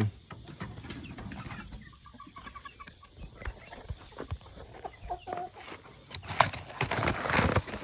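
Chickens clucking in short, soft notes over low rustling, with a burst of loud rustling near the end.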